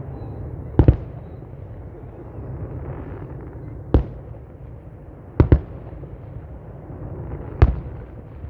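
Aerial fireworks shells bursting: single sharp bangs and quick pairs of bangs every one to three seconds, with a steady low rumble between them.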